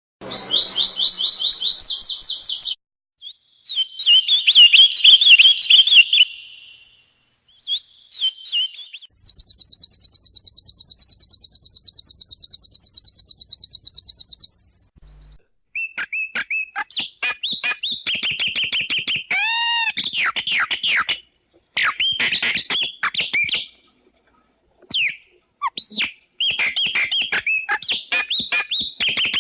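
Songbirds singing a series of different songs: chirping phrases, a long fast even trill, and rapid whistled notes, broken by short stretches of silence.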